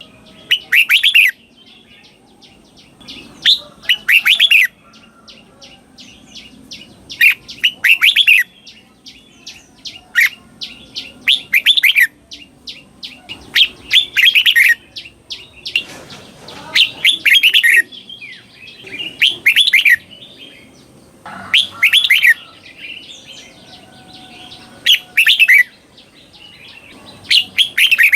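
Red-whiskered bulbul singing its doubled song, each short warbled phrase given twice in quick succession. The pairs repeat every two to three seconds, with softer chirps between them.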